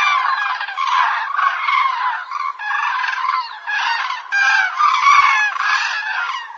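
A flock of birds calling over one another, many pitched calls overlapping without a break.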